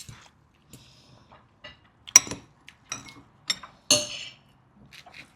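Utensils clinking against dishes and bowls: a string of separate sharp clinks, one about four seconds in ringing briefly.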